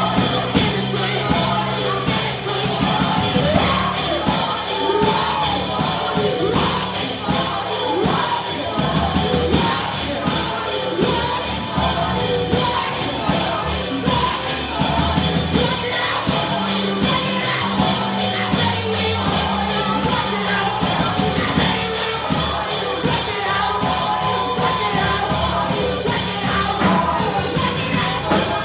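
Live church praise music: a band with drum kit and bass playing steadily while voices sing.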